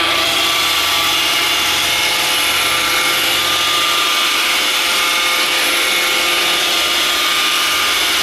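iRobot Roomba 580 robot vacuum running, its vacuum fan and brush motors giving a steady whir with a high, even whine.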